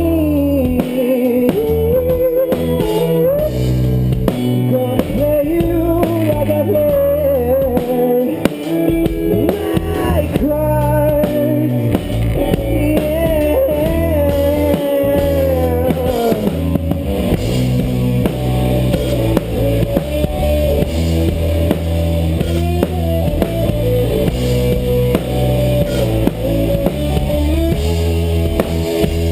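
Live rock band playing: drum kit, bass and guitar, with a wavering, bending lead melody over the top.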